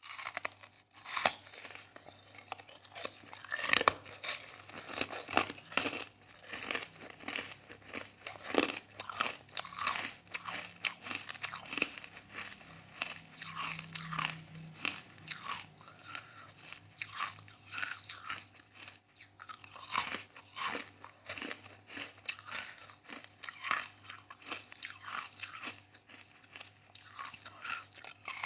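Soft crushed ice being chewed up close: a dense, irregular run of crisp crunches, with a few louder bites among them.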